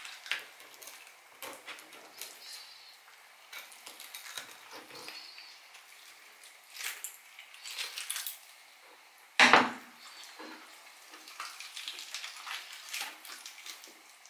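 Hands gutting a scorpionfish on a plastic cutting board: irregular wet clicks and crackles as the knife and fingers work the gills and innards loose. About nine seconds in, one loud knock on the board stands out.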